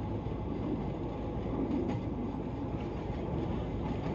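Darjeeling Himalayan Railway narrow-gauge passenger train running, heard from on board: a steady low rumble of the moving carriage with faint rail clatter.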